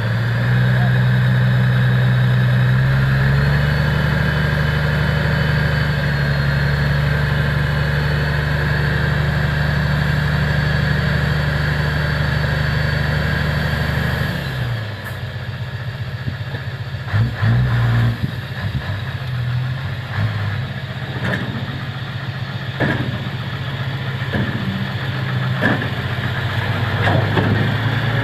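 Diesel engine of a dump truck running steadily, its note dropping and changing about halfway through, followed by a scatter of sharp knocks and clanks.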